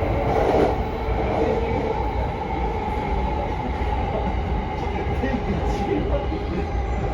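JR Sobu Line electric commuter train running steadily along the track, heard from inside the front car: a continuous, even running noise of wheels on rails and traction motors.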